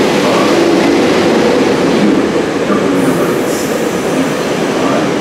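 SEPTA Silverliner IV electric multiple-unit train running past along the platform of an underground station: a loud, steady rumble of wheels on rail. A brief high-pitched sound comes in about three seconds in.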